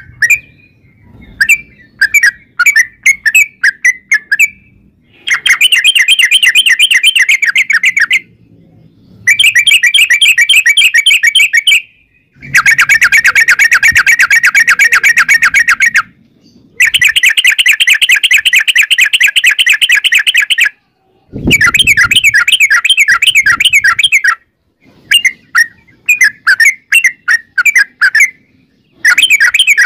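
Yellow-vented bulbul (trucukan) singing its long rolling trill: runs of rapid, evenly repeated chattering notes lasting three to four seconds each, separated by brief gaps and by looser bouts of separate notes near the start and end.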